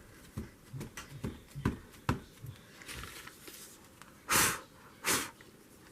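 Soft repeated tapping of an ink pad dabbed onto a paper card, then two short breathy rushes of air near the end.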